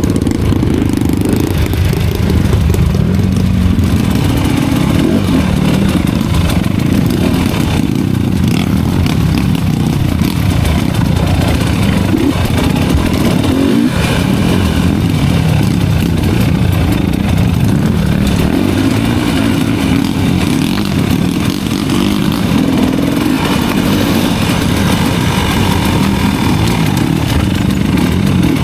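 Enduro dirt-bike engine running loud and steady, its revs rising and falling a little.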